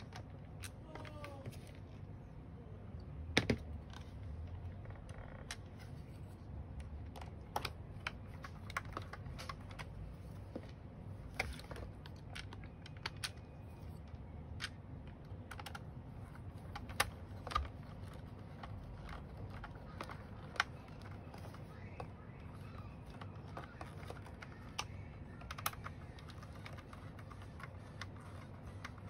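Scattered small clicks and taps of a screwdriver and the plastic housing of a Dyson V8 vacuum as the three screws holding its battery are driven back in, over a faint low hum.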